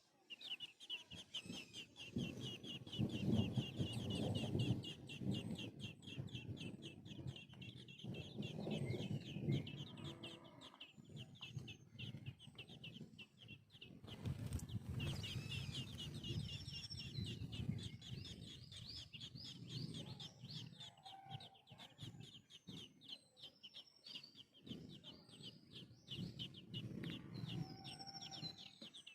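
Nestling birds begging, a fast run of short, high-pitched cheeps with many calls a second, over a low rumble.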